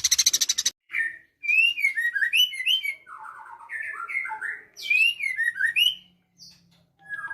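Bird chirping: two runs of short whistled notes that rise and fall, after a fast rattling buzz that stops under a second in.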